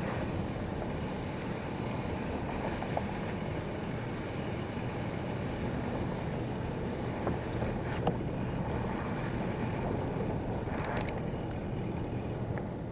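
A vehicle driving through deep snow: a steady rumble mixed with wind noise on the microphone, with a couple of faint knocks past the middle.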